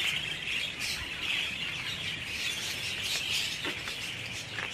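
A colony of small cage birds, lovebirds among them, chattering together in a continuous dense twittering of many overlapping chirps.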